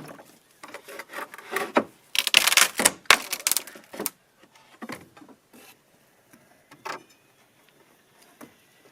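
Wood knocking and scraping as boards are handled, with a busier stretch of scraping about two to four seconds in, then a few scattered, quieter knocks.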